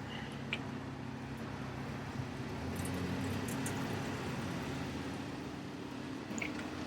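A vehicle engine running at a steady idle, a low even hum.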